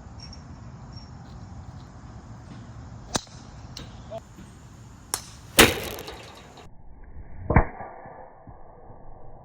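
Several sharp cracks and knocks over a steady outdoor hiss, the loudest a little past halfway and another strong one about three-quarters through: the thwack of a golf driver striking the ball.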